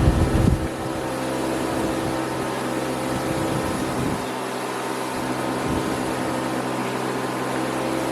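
A machine running steadily with an even hum, after a few knocks at the very start.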